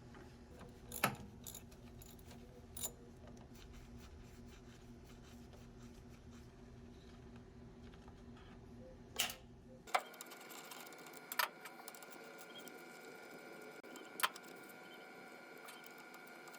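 Scattered sharp clicks and clinks of small hard objects being handled, about half a dozen, over a faint steady hum. About ten seconds in, the background changes abruptly to a different faint hum with thin high tones.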